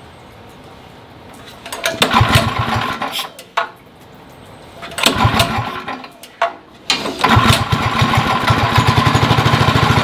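Small single-cylinder go-kart engine being started: it fires and dies twice, then catches about seven seconds in and keeps running with a rapid, even beat. The engine has been smoky and stalling, which the owner blames on a worn-out engine rather than the carburettor.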